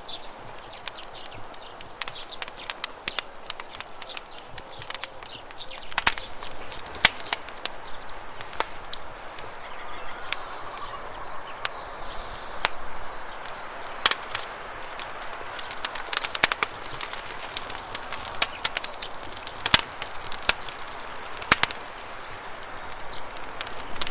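Wood campfire crackling with irregular sharp pops, over a steady rush of flowing river water. A bird trills high and fast about ten seconds in, and briefly again a few seconds later.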